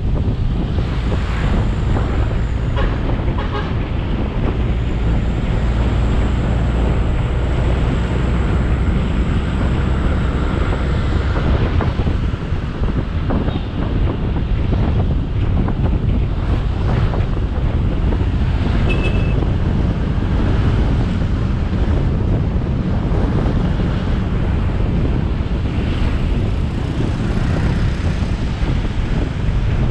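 Motorcycle riding along a road: a steady rush of wind on the camera microphone over the engine's running and road noise.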